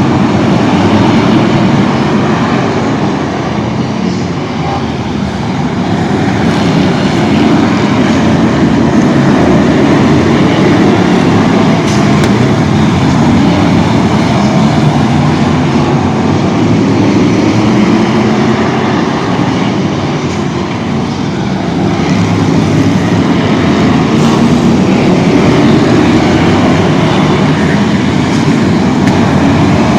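Loud, continuous vehicle rumble that swells and eases slowly over several seconds.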